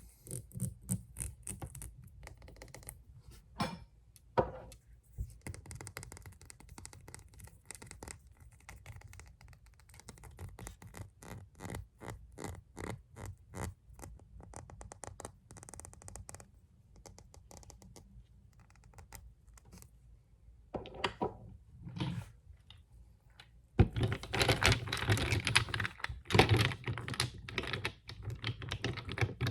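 Fast tapping and scratching on nail polish bottles: many quick, sharp clicks, turning into a louder, denser run of tapping near the end.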